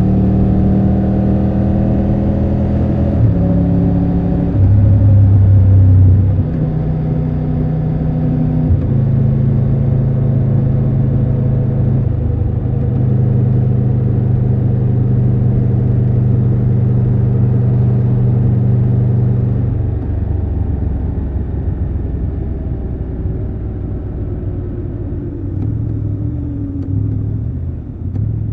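Triumph Tiger 1200 Rally Pro's three-cylinder engine running under way, its note holding steady for stretches and stepping up and down several times as throttle and gears change, loudest for a moment about five seconds in. From about two-thirds through it drops in level and its note falls away as the bike rolls off the throttle and slows.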